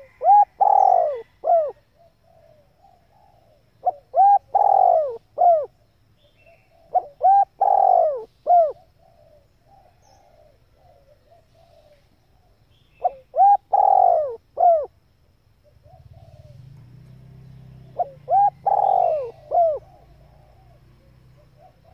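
Female spotted dove cooing. Five matching phrases come a few seconds apart, each a short note, a longer falling coo and a short closing note. A faint low hum comes in about two-thirds of the way through.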